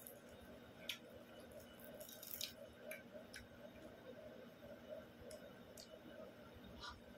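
Faint eating sounds: a few short, light mouth clicks and smacks while chewing rice and greens eaten by hand, over a faint steady hum.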